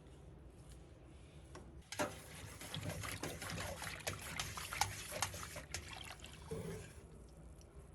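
Water trickling and splashing with many small clicks, starting suddenly about two seconds in and lasting about four seconds, with a smaller splash near the end.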